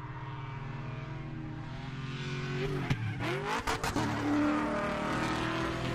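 Race car engine running and revving, its pitch sweeping up, with several sharp cracks and breaks about halfway through.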